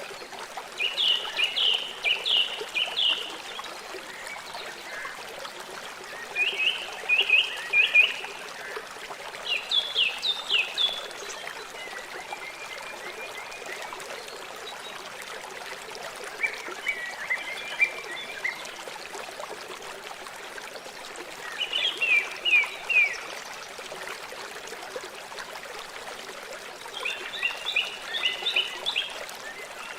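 River water flowing steadily. Over it, a small animal, bird or frog, calls again and again: short phrases of three to five quick, high notes, each phrase about a second long and repeated every few seconds.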